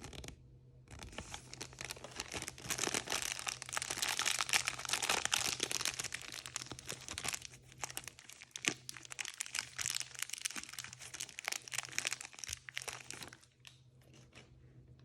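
Blind-bag wrapper being crinkled and torn open by hand: dense crinkling and tearing after a short pause at the start, busiest in the middle and dying away near the end.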